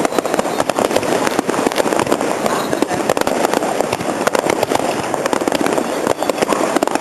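Fireworks crackling: a dense, unbroken run of many small sharp pops over a steady rushing hiss.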